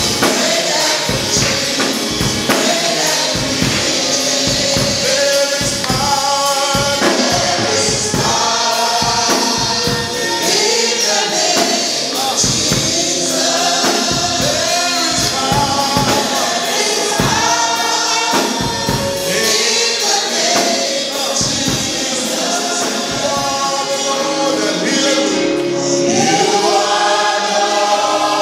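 Gospel choir and congregation singing with a band, drums beating steadily and a tambourine.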